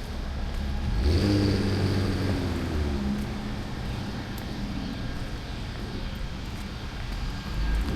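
A car driving past on the street, loudest about a second in, its engine note falling in pitch as it moves away; another vehicle comes up near the end.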